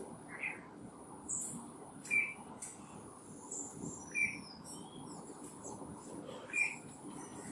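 Wild birds calling: a short call repeated about every two seconds, with quick higher chirps in between, over a steady high-pitched insect hum.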